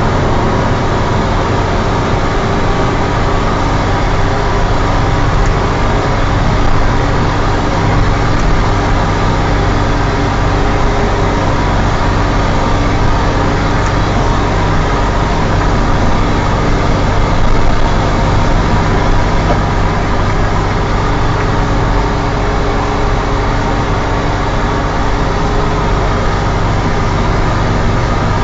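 New Holland TM190 tractor's six-cylinder turbo diesel engine running steadily at a constant speed, with its turbocharger whistling.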